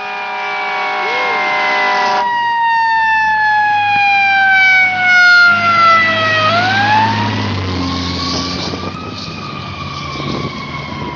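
Fire truck siren wailing: its tone falls slowly for about six seconds, rises again quickly, then holds and eases down. A steady chord of tones sounds alongside it and stops about two seconds in, and a low engine rumble runs underneath.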